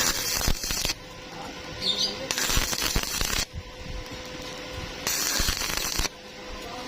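Stick-welding arc crackling in three short bursts about a second long each, like tack welds, with scattered clicks and ticks between them.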